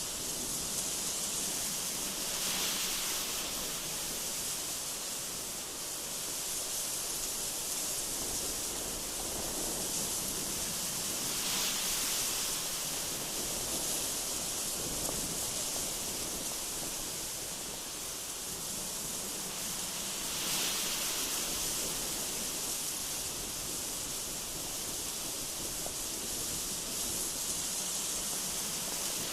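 Gusty wind blowing, a steady hiss that swells briefly three times.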